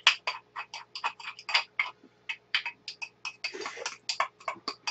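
Close-miked chewing and wet mouth smacks from eating jjajangmyeon noodles: a quick, irregular run of short clicks, several a second, with one longer wet burst about three and a half seconds in.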